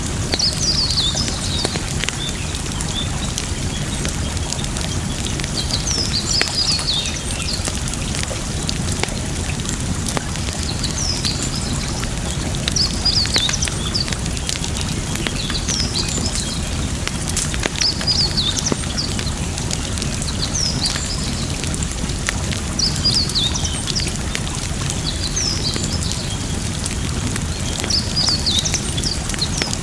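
Campfire crackling with scattered pops over a steady rush of running water, while a bird chirps in short bursts every few seconds.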